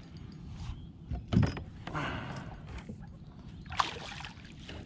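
A flathead being landed beside a kayak: a loud knock against the kayak about a second in, then splashing water, and a sharp click near the end, over a steady low rumble.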